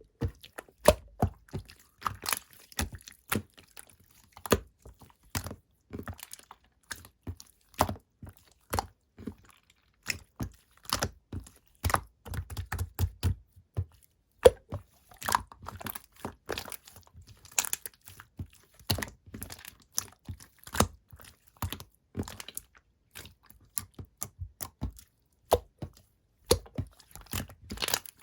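Clear slime squeezed and pressed by hand, giving irregular wet clicks and pops, several a second, with a denser run of squishing about halfway through.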